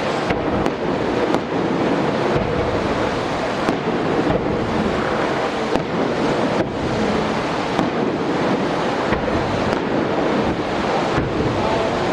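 Fireworks display: a dense, continuous barrage of bangs and crackling that blurs into a steady rumble, with sharper reports standing out here and there.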